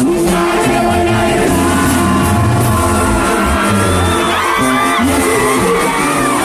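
Live norteño-banda music played loud through a concert sound system, with singing over the band.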